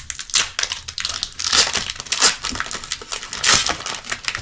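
Foil booster-pack wrapper crinkling and crackling in a string of quick bursts as the pack is torn open and handled.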